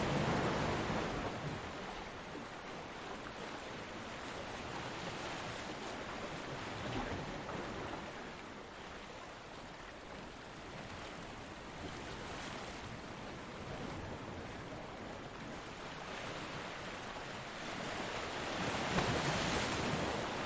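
Ocean surf: a wave breaking and washing up at the start, a quieter lull of rushing water, and the next wave building and breaking from about 18 seconds in.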